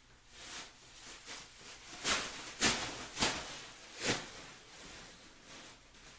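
A few short, sharp rustles and crinkles from trading-card packaging being handled on the table, loudest in the middle.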